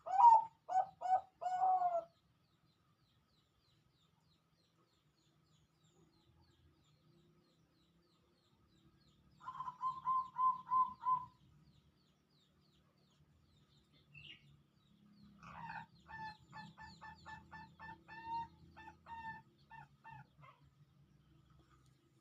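Zebra dove (perkutut) cooing in three bouts of short, clipped notes: a brief phrase of about four notes at the start, a quick even run of notes about ten seconds in, and a longer series of rapid notes near the end.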